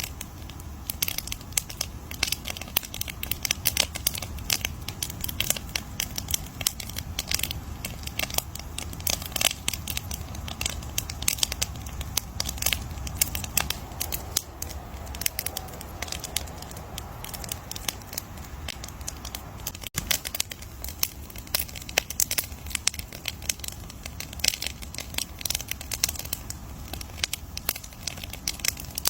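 Campfire crackling steadily: dense, irregular sharp pops and snaps from burning wood over a low, steady rumble of the flames.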